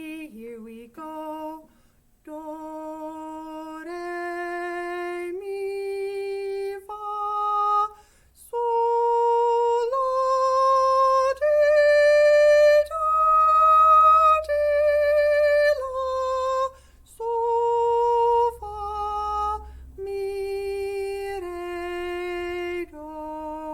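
A woman singing a scale slowly, one held note at a time, climbing step by step about an octave and then stepping back down.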